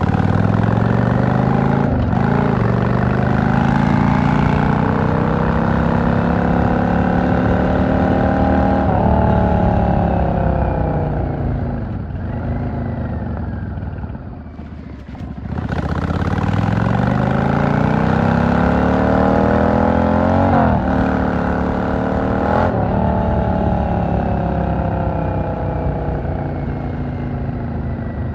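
V-twin cruiser motorcycle engine pulling up through the gears. The pitch climbs steadily, then drops at each upshift. It eases off once about halfway through, then accelerates again with two quick upshifts and settles to cruising.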